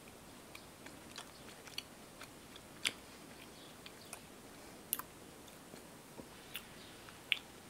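A person chewing a soft strawberry chew candy, faint and wet, with small irregular mouth clicks and smacks. There are a few sharper clicks about three seconds in, around five seconds, and near the end.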